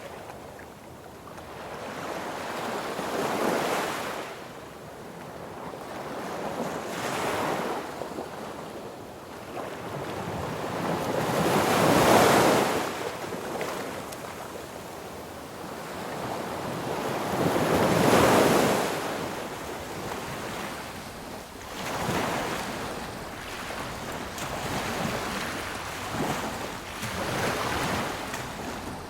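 Sea waves breaking on a beach, surging and receding every few seconds, with the two biggest breakers about 12 and 18 seconds in.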